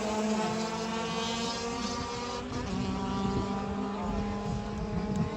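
A motor vehicle's engine holding a steady high-revving note at a distance, its pitch drifting slightly down.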